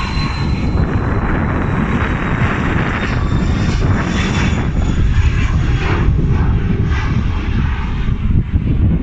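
Jet airliner's engines heard close by: a loud rumble with a high whine that slowly fades.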